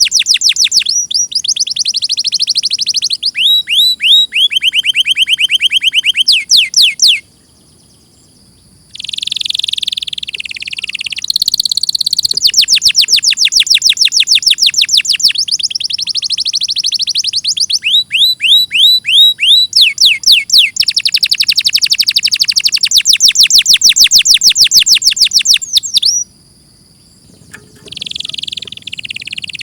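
Domestic canary singing: a long song made of fast trills, each a run of quickly repeated high notes, switching from one trill to the next every few seconds. The song breaks off briefly twice, about seven seconds in and again near the end.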